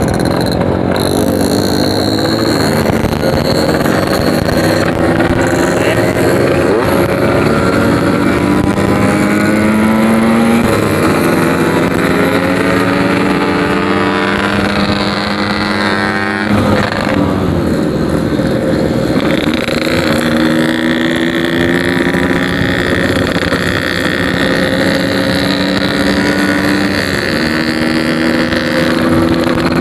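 Yamaha RX-King single-cylinder two-stroke with a packing-power aftermarket exhaust, ridden and pulling through the gears. The pitch climbs in steps and drops at each shift, with a clear shift about 16 seconds in.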